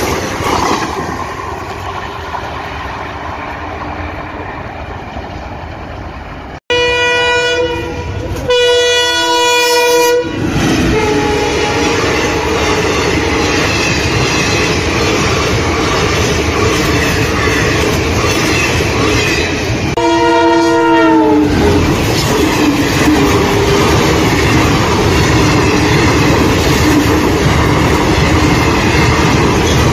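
Indian Railways express coaches run past at close range, with steady rolling noise from wheels and rails. After a cut about seven seconds in, the ALCO diesel locomotive's multi-tone horn sounds two long blasts. A third blast, around twenty seconds in, drops in pitch as it goes by.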